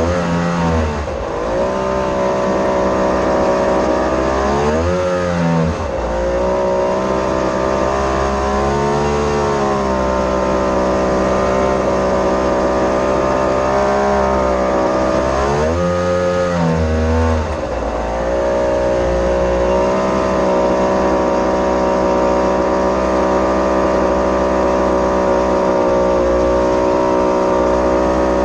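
Mini jet boat engine running hard at steady revs, its pitch dropping briefly and climbing back about three times as the throttle is eased and reopened, then holding steady through the second half.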